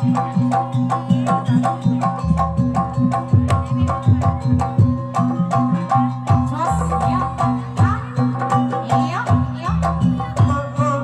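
Jaranan folk music: quick hand-drum strokes over a steady layer of ringing pitched tones and a moving bass line. A sliding melody line comes in about six seconds in.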